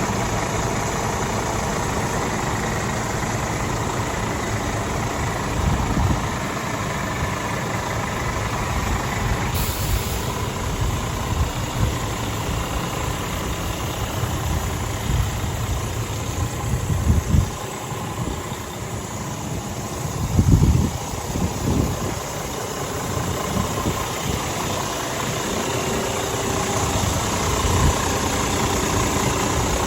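Scania G450 truck's diesel engine idling steadily, with a few brief louder low rumbles along the way.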